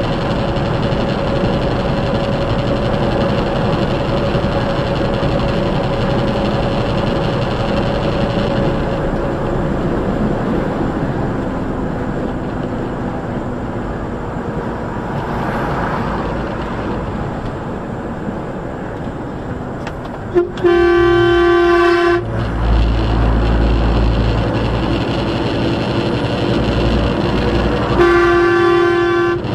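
Steady road and engine noise from a moving vehicle. A loud horn sounds twice at one steady pitch, about a second and a half each time: once about two-thirds of the way in and again near the end.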